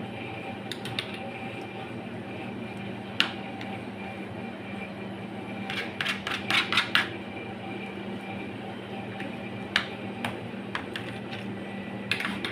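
Light clicks and taps of kitchen utensils, with a quick run of several taps about six seconds in, over a steady low hum.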